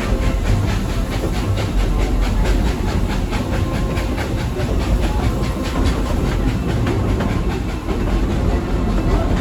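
Narrow-gauge steam train pulled by locomotive No. 12 running along, heard from aboard: a steady low rumble with rapid, even beats, about five a second, and some hiss.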